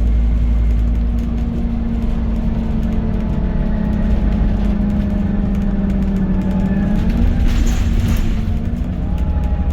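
Scania N280UD bus's engine and driveline running steadily under way, heard inside the passenger cabin: a constant drone with fainter whines that slide in pitch as the road speed changes. A brief hiss comes about three-quarters of the way through.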